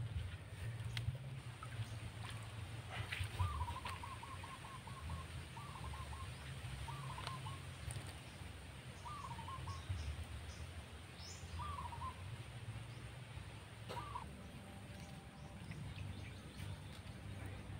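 A bird calling repeatedly, short warbling calls every couple of seconds that stop about fourteen seconds in, over a steady low rumble.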